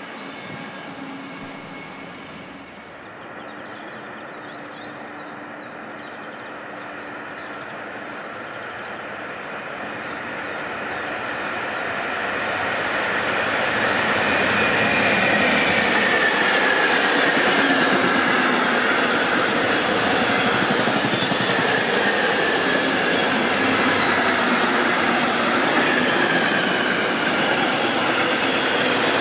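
Freight train hauled by an electric locomotive, approaching and passing at speed. The steady rush of wheels on rail grows louder over the first dozen seconds and stays loud as the wagons roll by. A wavering high tone from the wheels on the rails rides on top.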